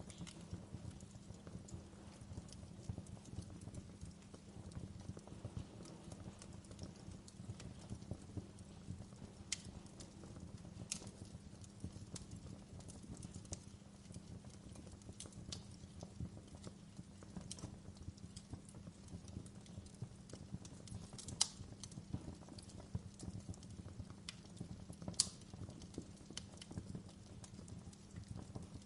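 Wood fire crackling in a fireplace: a steady low rumble of burning with many small crackles and scattered sharp pops, the two loudest pops coming late on.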